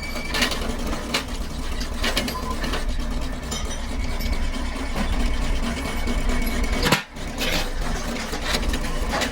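Workshop machinery running with a steady low hum and scattered sharp metallic clicks and knocks. The sound dips briefly about seven seconds in.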